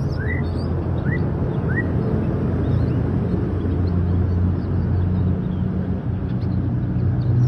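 A small bird gives a few short rising chirps in the first two seconds, with fainter high chirps later, over a steady low rumble that is the loudest sound throughout.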